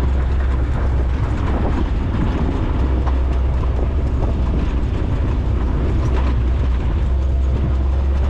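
Maverick side-by-side driving steadily: a continuous low engine and drivetrain drone with scattered small rattles and knocks from the vehicle over rough ground.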